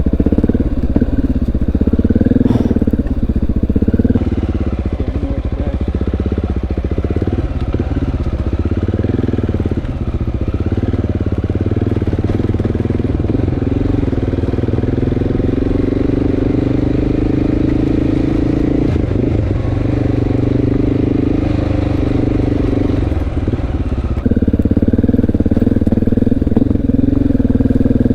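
Honda XR650L's single-cylinder four-stroke engine running as the bike is ridden, its pitch rising and falling with small throttle changes. It gets louder a few seconds before the end.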